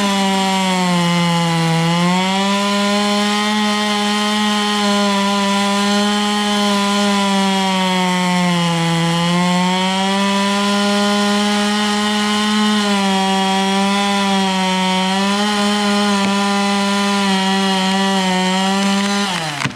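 Two-stroke chainsaw held at full throttle, cutting through a dead green ash trunk to fell it. The engine pitch sags several times as the chain bites under load, then falls away near the end as the throttle is released.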